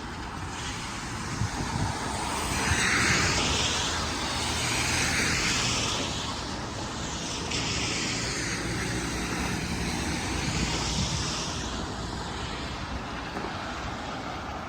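Traffic passing on a wet city street: a hissing rush that swells and fades twice over a steady low rumble.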